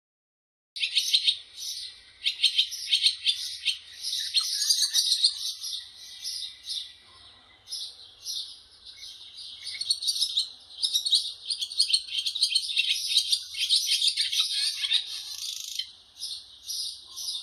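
A bird singing: a fast, unbroken run of high chirps and trills, starting about a second in.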